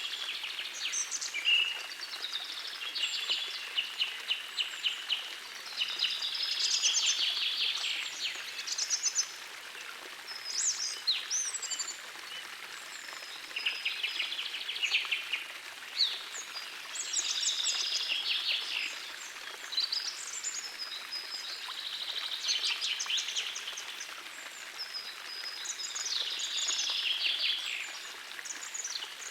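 Songbirds singing in repeated bursts of rapid trills and chirps, one phrase every second or two, over the steady rush of a small forest stream.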